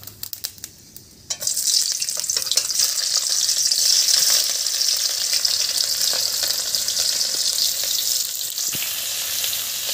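Sliced onion, green chilli and garlic hitting hot oil in a wok and frying. A few light spatula clicks come first, then a loud sizzle starts suddenly about a second and a half in and continues steadily while the spatula stirs.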